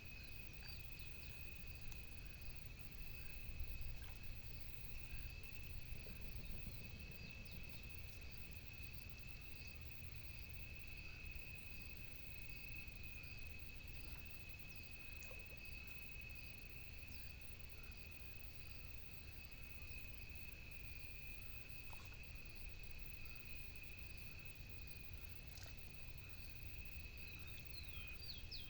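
Steady, unbroken high-pitched insect trill, cricket-like, with faint scattered chirps above it and a low steady rumble underneath.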